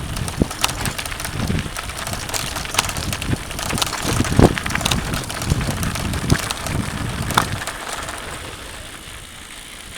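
Mountain bike rolling over a rough dirt and rock trail: tyres crunching, with irregular clicks, knocks and rattles from the bike. It eases off over the last couple of seconds.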